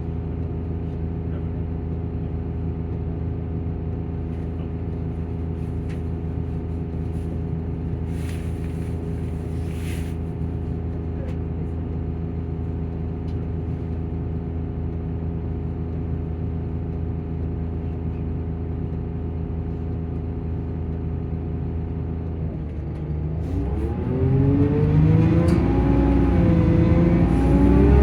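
Volvo Plaxton coach's diesel engine and cooling fan running, a steady droning hum. About 23 seconds in, the sound grows louder and its pitch swings up and down.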